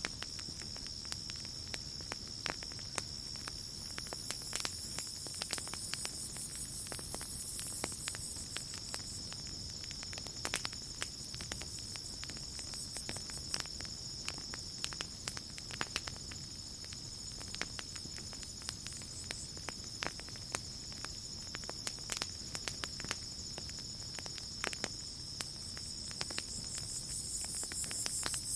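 Campfire crackling, with irregular sharp pops and snaps, over night insects trilling steadily in a high, even tone. A second, higher insect chirring joins twice, once for a few seconds and again near the end.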